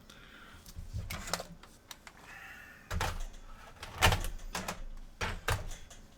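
Several sharp knocks and clicks of hard console parts being handled and set down, with short scratchy rubbing sounds in between. The loudest knocks fall about three and four seconds in, then a pair just after five seconds.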